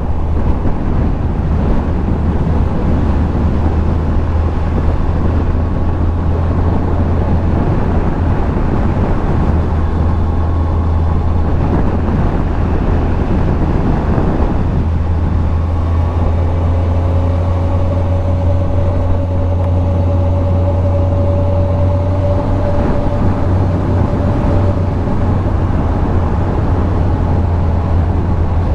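2001 Yamaha Fazer FZS1000 inline-four motorcycle running at a steady cruise, with heavy wind rush and rumble on the rider's camera. From about halfway, a thin steady engine tone rises above the noise for several seconds.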